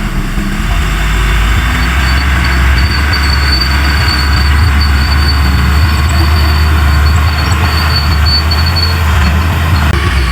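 Large bulldozer's diesel engine running steadily with a low drone, a thin high whine coming and going above it.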